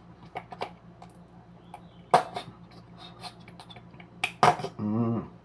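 Scattered light clicks and taps of food and utensils being handled, with a sharper knock about two seconds in and another a little after four seconds, over a low steady hum. A short vocal sound comes just before the end.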